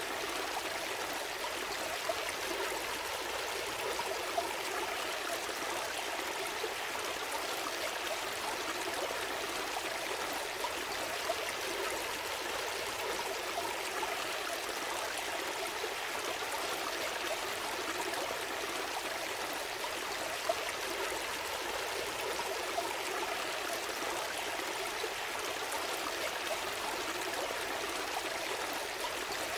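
A small stream flowing and trickling steadily over stones, an even rushing with small splashes.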